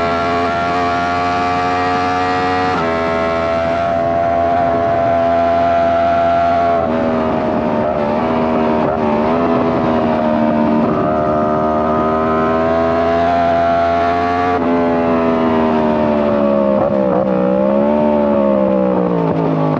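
2017 Yamaha YZF-R1's crossplane inline-four engine through a Two Brothers Black Series shorty exhaust, running loud and steady. Its pitch holds level and changes suddenly every few seconds. The note wavers near the end and then falls away as the engine winds down.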